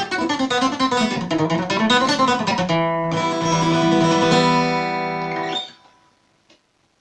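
Acoustic guitar playing a fast picado run of single plucked notes, then a full chord held ringing for about three seconds before it is damped; the guitar has drifted out of tune. A small click follows.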